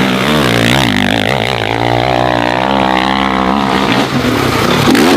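Dirt bike engine revving, its pitch rising and falling with the throttle.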